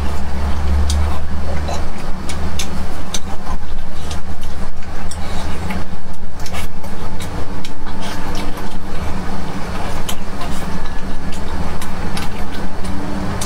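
Close-miked eating: wet chewing and frequent lip smacks on sticky braised beef, over a steady low hum.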